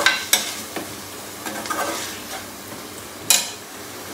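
Chicken pieces sizzling as they fry in hot ghee and onion-tomato masala, while a metal slotted spoon scrapes and knocks against the metal pot as it stirs. There are a few scrapes in the first second and a louder knock a little past three seconds in.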